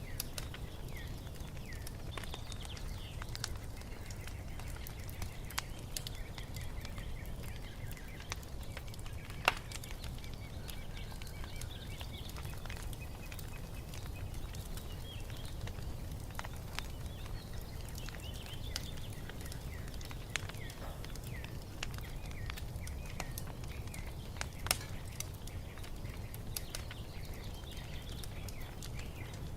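Wood fire crackling with scattered sharp pops over a steady low rumble, the loudest pops about nine and a half seconds in and again near twenty-five seconds, while songbirds chirp and twitter.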